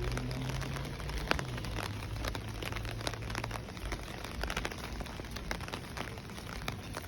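Steady rain falling, with irregular individual drops striking close by as sharp taps. A low steady hum sits underneath for about the first half.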